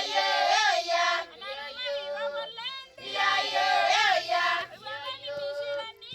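A bird singing a repeated warbling, whistled phrase, about every three seconds.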